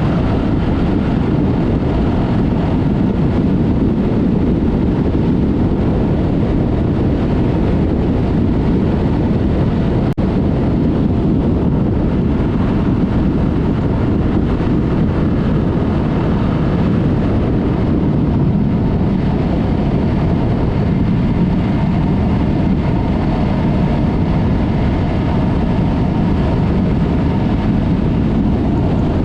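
Yamaha MT-03 motorcycle cruising at a steady pace, its parallel-twin engine running through a Mivv aftermarket exhaust, mixed with wind rush on the action camera's microphone.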